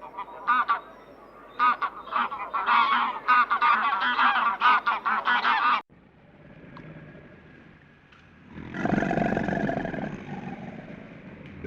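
A flock of birds giving many rapid, overlapping short calls, which cut off suddenly after about six seconds. Nearly three seconds later a different, rougher animal sound comes in and lasts about three seconds.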